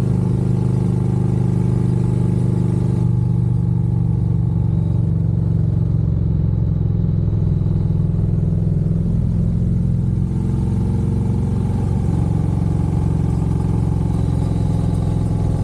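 Harley-Davidson Road Glide's V-twin engine running under way, a steady low exhaust note. The throttle eases off about three seconds in and comes back on a few seconds before the end.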